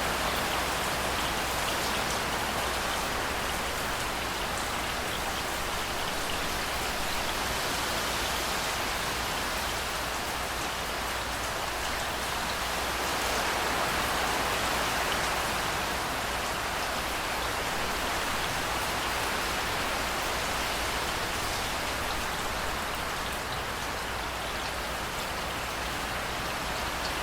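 Steady rain pouring down, a dense even hiss of drops on surfaces that swells slightly about halfway through.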